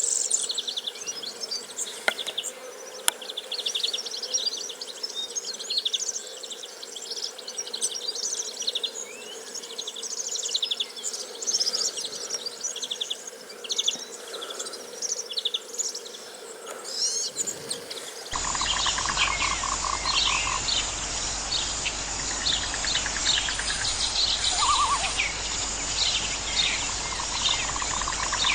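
Outdoor nature ambience of many small birds chirping and trilling, with insects buzzing. About eighteen seconds in, it switches abruptly to a different recording with a steadier hiss, more chirps and a rapid pulsing trill lower in pitch.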